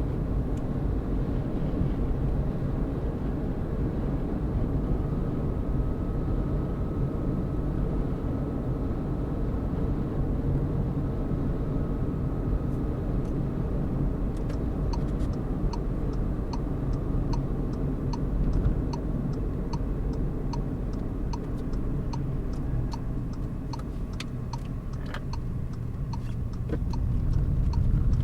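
A car driving, with a steady low rumble of engine and road. About halfway through, a regular ticking starts at about two clicks a second, typical of a turn-signal indicator.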